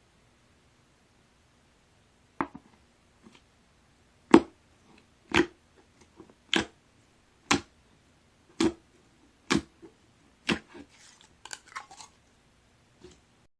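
Green clear slime being squished by hand, making a short sharp pop about once a second, seven in a row, followed by a cluster of smaller crackles.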